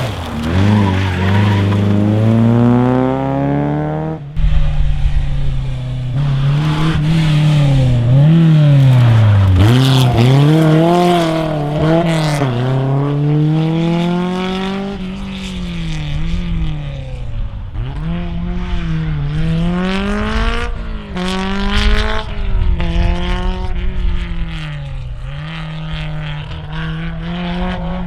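Rally car engines run hard through the gears. The pitch climbs steeply, then falls at each gear change or lift-off, many times over, with tyre noise underneath. About four seconds in there is an abrupt change to a different car.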